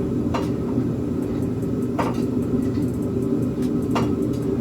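A steady low mechanical hum, with three sharp metallic clicks about two seconds apart from the header hardware being handled.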